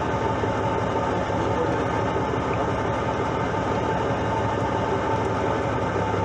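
A fishing boat's engine running steadily with an even hum.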